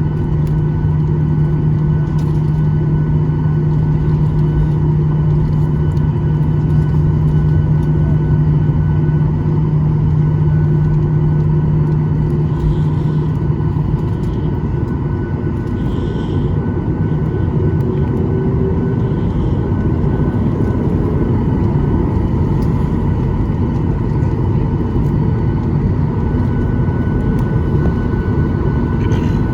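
Cabin noise inside a Boeing 737-800 airliner: a steady rumble and hum from the engines and air system, with several constant tones. A strong low hum drops away about halfway through.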